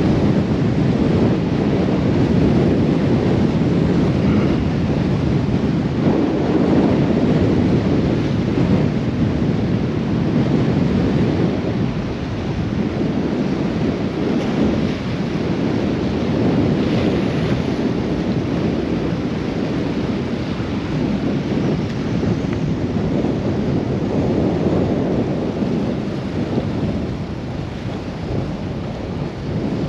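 Storm-force wind buffeting the microphone, with driving rain: a loud, steady rumbling rush that swells and eases a little.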